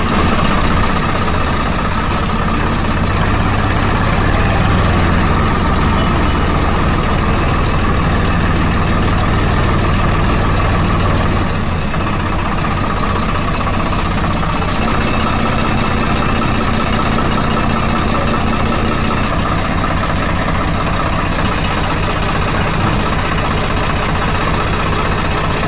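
Small electric motor and gearbox of a homemade mini tractor model, whirring steadily under load. Its low hum changes strength now and then as the load shifts.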